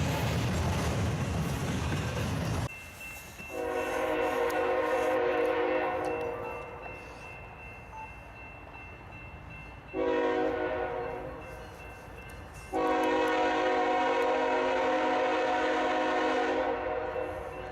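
Dense rumbling noise of a passing freight train cuts off abruptly, then a diesel locomotive's air horn sounds three blasts: a long one, a shorter one about ten seconds in, and another long one near the end.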